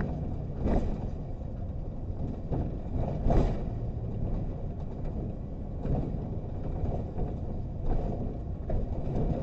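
Car running, heard from inside the cabin as a steady low rumble, with a few brief louder sounds about a second in, past three seconds, and near six and eight seconds.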